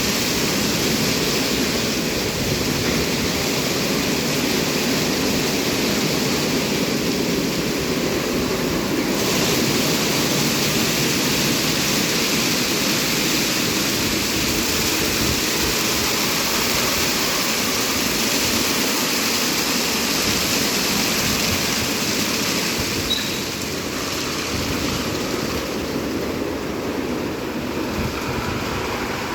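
Istobal M12+ rollover car wash running a wash stage: a steady rush and hiss of water spraying onto the car. The sound shifts about nine seconds in and drops a little near the end.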